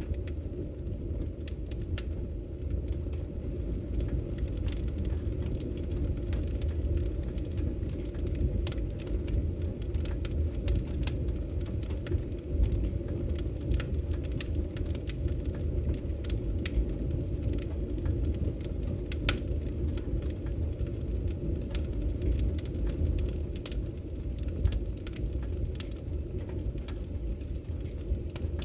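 Fire burning in a fireplace: a steady low rumble of flames with many scattered crackles and pops.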